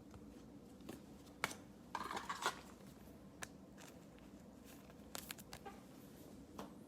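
Basketball trading cards being handled: a few faint scattered clicks and a short rustle of card stock about two seconds in.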